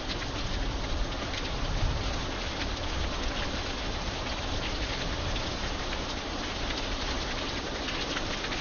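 Steady rain falling on an iron bridge, a dense even hiss dotted with many sharp ticks of single drops striking.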